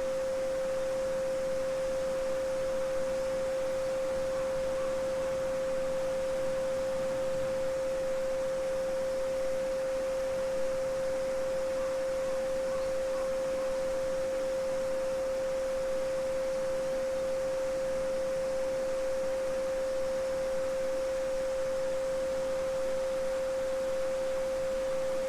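A steady 528 Hz pure sine tone holding one pitch, over a faint wash of babbling brook.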